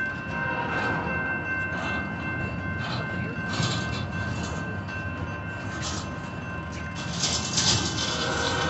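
Empty intermodal freight cars rolling past: a steady rumble with scattered metallic clanks from the wheels, which grow louder and closer together near the end, under a few steady high tones.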